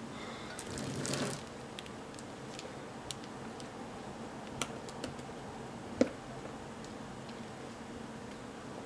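Light clicks and taps of containers and utensils being handled while ingredients are measured, with one sharper knock about six seconds in, over a steady low hum.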